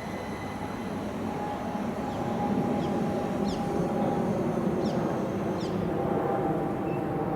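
Electric passenger train running through the station: a steady rumble of wheels on rail that grows louder about two seconds in, with a faint steady whine.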